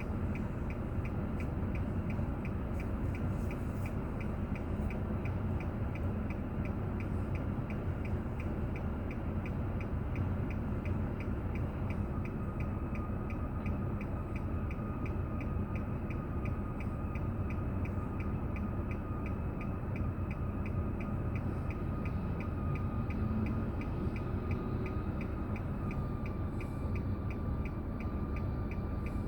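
A car's turn-signal indicator ticking steadily in the cabin, with evenly spaced clicks, over the low steady hum of the engine and road.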